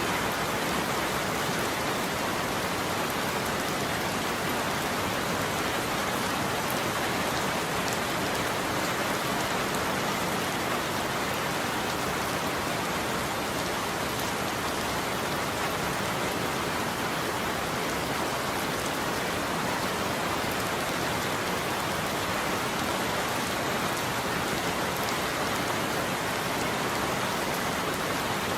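Steady heavy rain falling on a surface, an even hiss with no let-up and no thunder.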